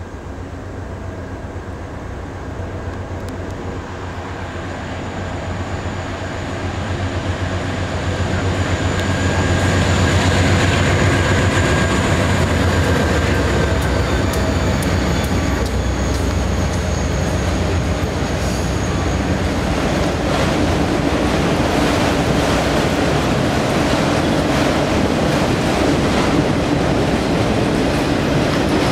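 CSX diesel freight locomotive approaching and passing with a deep engine drone that grows louder over the first ten seconds. Its freight cars then roll by with a steady run of clicks from the wheels over the rail joints.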